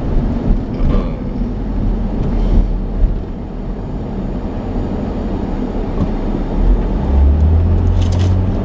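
Car cabin noise while driving: a steady low rumble of engine and tyres, with a deeper hum swelling over the last second or so.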